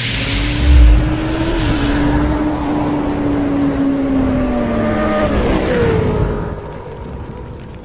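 Aircraft passing close by: loud engine noise with a steady tone that falls in pitch as it goes past, about five seconds in, then fades away. There is a low thump about a second in.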